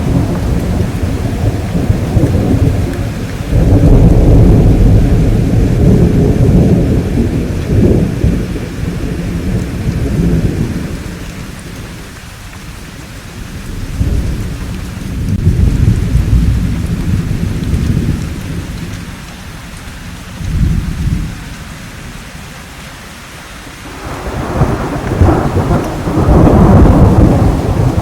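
Rolling thunder rumbling deep and long over steady rain. It swells in several waves: a long roll from about four to ten seconds in, another around fifteen to eighteen seconds, a short clap near twenty-one seconds, and a loud roll building near the end, with quieter rain between.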